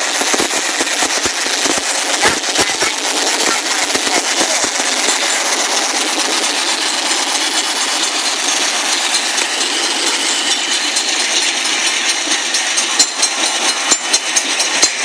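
Long train's cars rolling past close by: a loud, dense clatter of steel wheels on the rails with many sharp knocks throughout, the knocks falling into a more regular beat near the end.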